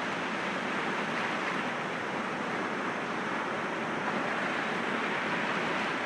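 Sea waves breaking gently against rocks: a steady, even wash of surf with no single crash standing out.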